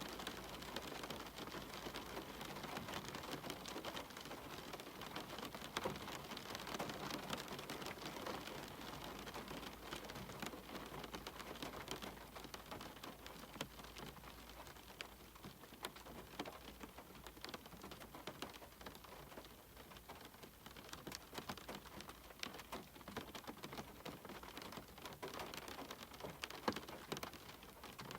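Steady rain falling, made up of an even wash of drops with many separate close drop hits ticking through it; it is a little heavier in the first third and eases slightly after the middle.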